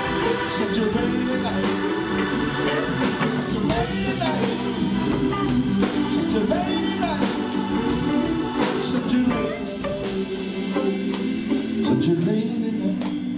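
Live soul-jazz organ trio playing a slow ballad: Hammond B3 organ holding full chords, with electric guitar and drums, the drummer keeping a steady cymbal beat. A few bending notes rise and fall over the chords.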